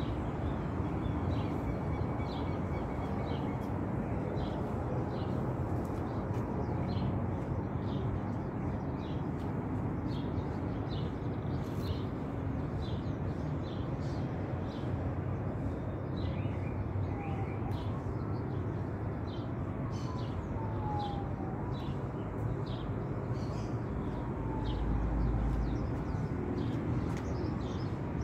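Small birds chirping repeatedly over a steady low background rumble, with a few short falling whistles in the second half.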